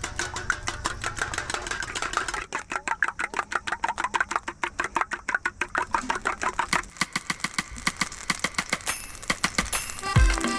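Eggs being beaten in a bowl: fast, even strokes, about eight or nine a second, slowing a little toward the end. Music comes in at the very end.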